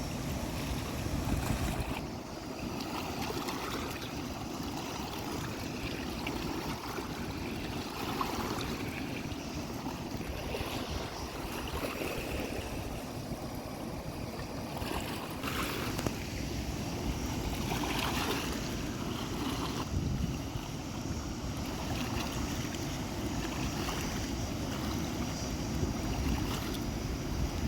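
Steady rush of flowing stream water, with wind rumbling on the microphone.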